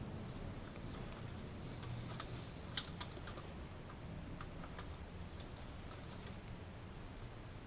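Scattered light, irregular clicks and taps of hand tools working on a car alternator's rear housing and screws.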